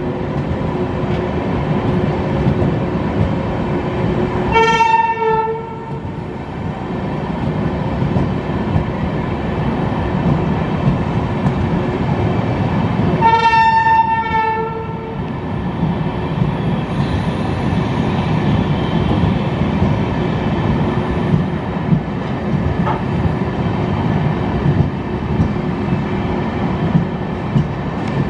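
Janshatabdi Express passenger coaches rolling past along the platform as the train arrives, a steady rumble of wheels on rail. A train horn sounds twice, about nine seconds apart, each blast lasting a second or two.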